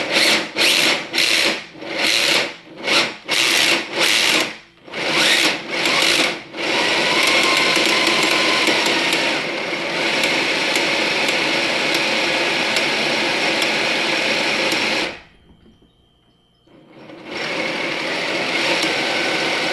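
Traxxas TRX-4 RC crawler's electric motor and two-speed gearbox whirring with the wheels spinning free. It is given about nine short blips of throttle, then runs steadily for several seconds, stops briefly and runs again. This is a bench test of the transmission, where the owner finds the shift servo not holding second gear firmly.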